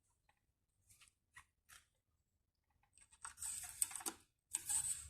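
Engine oil dipstick being handled: a few light clicks, then two short rustling scrapes about three and four and a half seconds in, as the dipstick is drawn from its tube and wiped.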